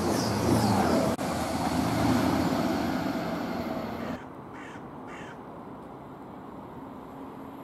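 Grand Central diesel train running along the platform, its engine and wheel noise fading over a few seconds, then a sudden drop to quieter station background. Two short, harsh crow caws about a second apart follow.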